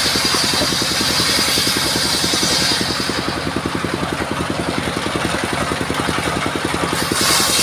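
Engine of a portable circular sawmill running steadily. A high-pitched hiss of the blade cutting wood fills the first three seconds, drops away, and returns near the end.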